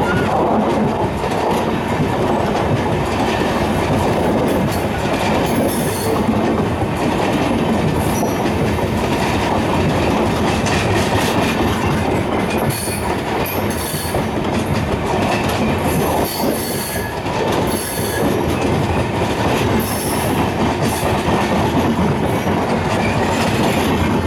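Passenger coaches of an express train passing close by at speed: a loud, steady rumble of steel wheels on the rails, with the wheels clattering over rail joints and brief high-pitched sounds now and then.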